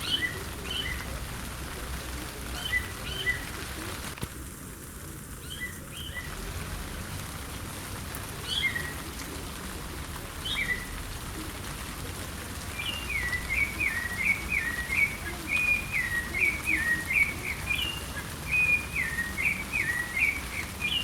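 A sabiá thrush singing over the steady hiss of rain: short, spaced whistled phrases at first, then from about thirteen seconds in a fast run of falling whistled notes.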